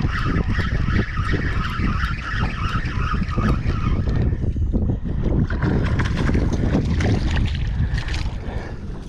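Strong wind buffeting the microphone, a heavy rumble with crackles, and a higher steady hiss that drops away about four seconds in.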